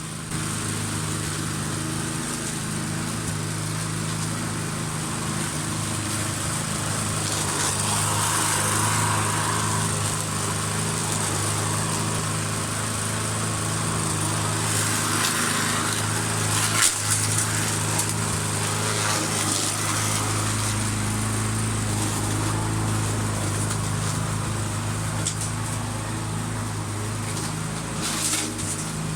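Petrol lawn mower engine running steadily while mowing grass, with a brief sharp knock about halfway through.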